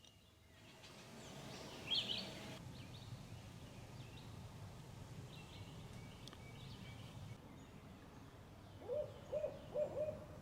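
Faint outdoor background with a brief high bird chirp about two seconds in. Near the end an owl starts hooting, a rhythmic run of short hoots at about two to three a second.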